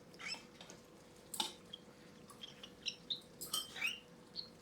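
Cockatiel chick giving short, high squeaks while being syringe-fed, the squeak that goes with a feeding reaction. A few sharp clicks fall in among the squeaks.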